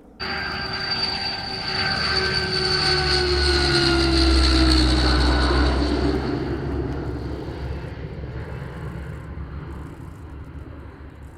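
Rolls-Royce Dart turboprop engines of a YS-11 aircraft passing: a whining drone that starts suddenly, grows to its loudest about four to five seconds in, then fades, its whine falling in pitch as the aircraft goes by.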